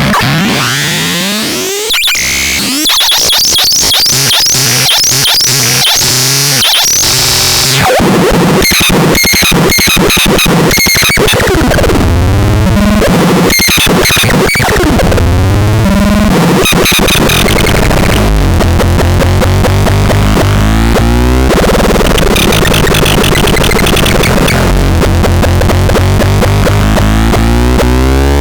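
Harsh electronic noise from the DOBLEX sound device, a synthesizer-like noise instrument: sweeping glides and fast stuttering clicks at first, then repeating high chirps, and from about a third of the way in a heavy low pulsing rumble with falling sweeps.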